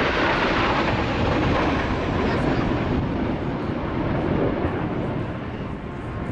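Kawasaki T-4 jet trainers of the Blue Impulse team passing over, a loud turbofan rush with a whine that falls in pitch as they go by and eases off slightly near the end.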